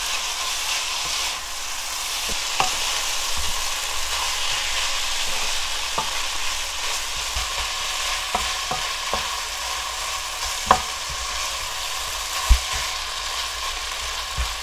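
Beef bulgogi with glass noodles and onions sizzling steadily in a hot frying pan as it is stirred with a spatula, with occasional light knocks of the spatula against the pan.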